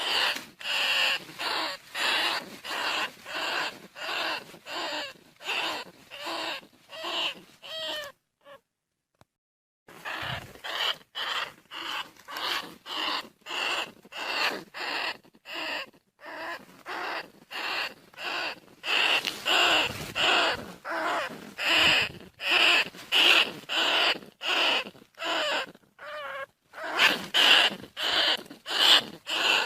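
Bandicoot rat (rice-field rat) calls: a run of short, harsh squeaking calls at about two a second, with a pause of a couple of seconds about a third of the way in. This is the kind of rat call that hunters play as a lure.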